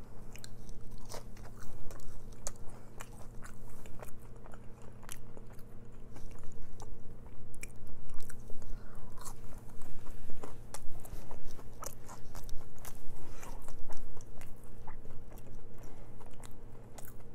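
Close-up biting and chewing of crunchy crinkle-cut french fries, many short crisp crunches throughout. A steady low hum from a running fan and air conditioner sits underneath.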